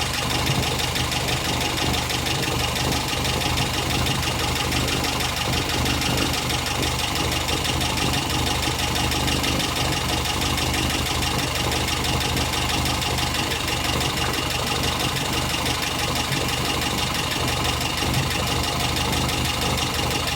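2-litre Mazda MA engine idling steadily during its first hours of running and warm-up.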